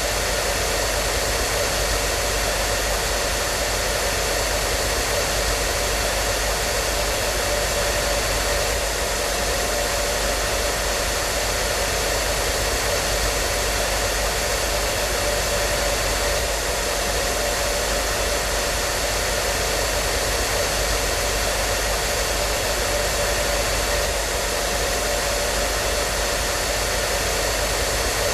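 Hair dryer running steadily: an even blowing hiss with a faint steady motor whine, unchanging throughout.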